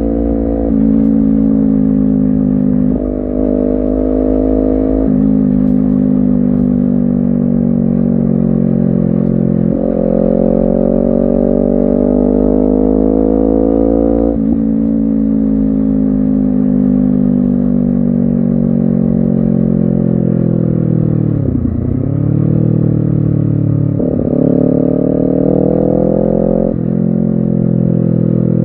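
Honda CBR250RR's parallel-twin engine under way, its pitch climbing steadily between a series of sudden steps as the rider changes gears. About two-thirds of the way through the revs dip sharply and climb back.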